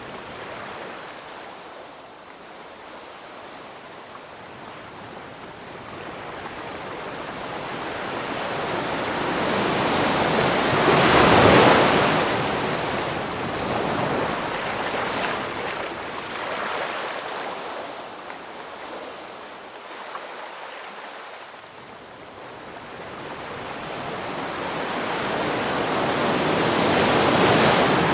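Ocean waves breaking and washing up the shore, each swell building over several seconds. One wave crashes loudest about a third of the way in and a second one breaks near the end.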